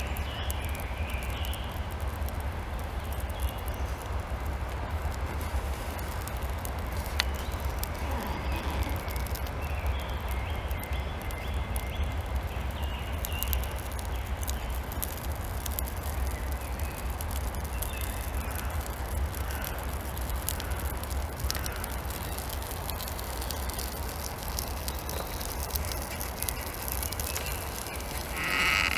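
Wind rumbling steadily on the microphone outdoors, with faint scattered crackles and a few short chirps, one louder near the end.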